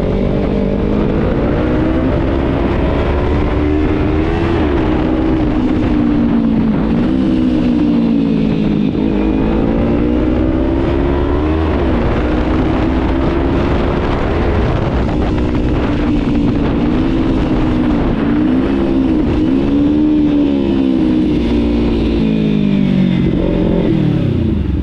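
Kawasaki Z300 parallel-twin engine under way, its pitch climbing and then dropping again and again as the bike pulls through the gears and eases off. Near the end there is a quick rev blip, and then the revs fall away as it slows.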